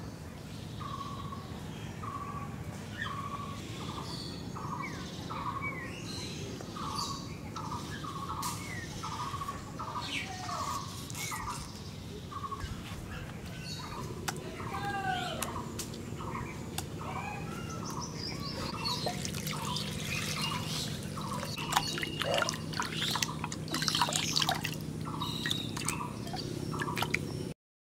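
Birds calling: a short call repeated over and over at nearly two a second, with a few sweeping notes. Scattered sharp clicks and taps join in during the second half.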